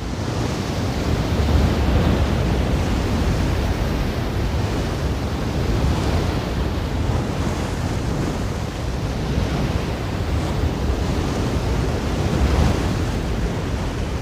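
Ocean surf: a steady rush of waves with a deep low rumble, swelling slightly about two seconds in and again near the end.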